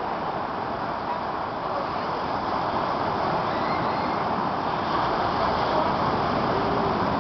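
Sea surf washing on the shore as a steady rushing noise, growing a little louder about two-thirds of the way in.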